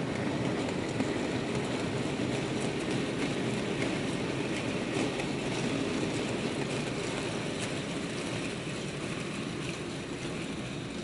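Cattle train of wagons rolling past, a steady rumble with scattered light clicks that eases slightly toward the end.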